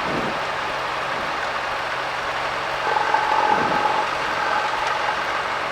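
Cessna 172 piston engine running at low taxi power, a steady drone heard inside the cabin. A brief steady tone sounds over it from about three seconds in to near the end.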